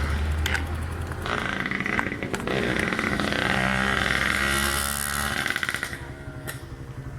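A motor vehicle's engine running close by as it passes on the road, steady and loud at first and then fading after about five and a half seconds.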